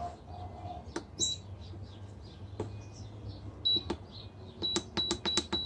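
Buttons on a Brass Monkey 12 V fridge-freezer's LCD control panel being pressed, each press giving a click and a short high beep. There are a few single presses, then a quick run of several presses near the end, over a low steady hum.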